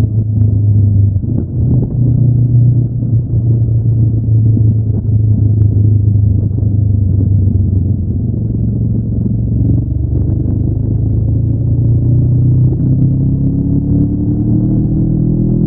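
Honda NX500's 471 cc parallel-twin engine, stock exhaust, running at steady throttle, then revving up slowly from about two-thirds of the way through.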